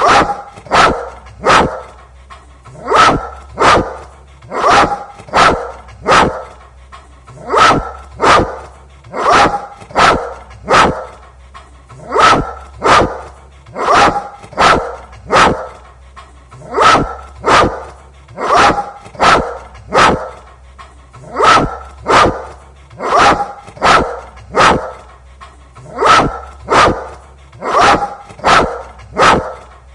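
A dog barking over and over, a little over one bark a second in clusters of two or three, in an even pattern that keeps repeating.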